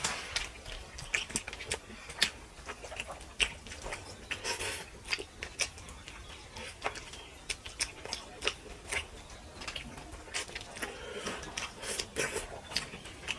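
Close-up eating sounds: chewing and mouth smacks while eating spicy fish curry and rice, with many short, irregular clicks throughout.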